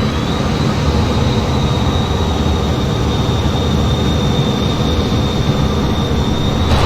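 F-15 jet noise: a steady heavy rumble with a thin high whine that rises briefly at the start, then holds level.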